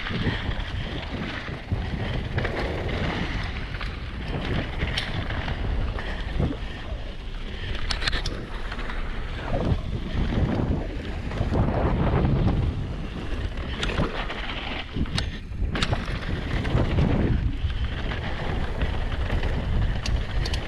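Hardtail mountain bike rolling fast over a rough dirt trail: wind buffeting the helmet camera's microphone and a steady tyre rumble, with the chain rattling and sharp knocks over the bumps every few seconds.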